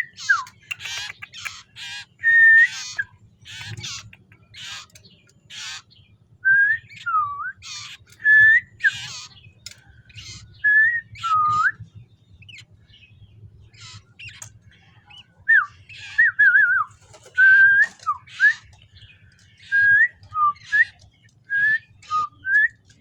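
Common iora (cipoh) calling: many short harsh chattering notes mixed with clear whistled notes that rise and dip. It is a young bird, not yet in full song.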